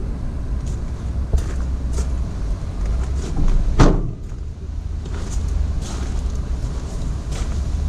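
A Ford Transit crew cab's rear door shut with a single thump about four seconds in, over a steady low rumble.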